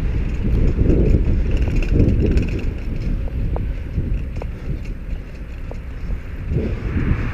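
Wind buffeting the microphone of a moving bicycle, with road and traffic noise underneath. A few faint ticks come in the middle.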